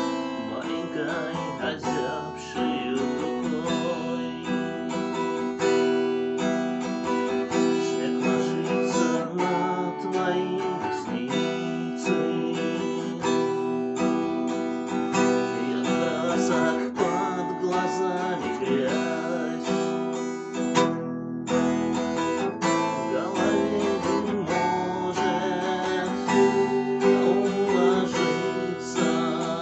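Music: a strummed acoustic guitar.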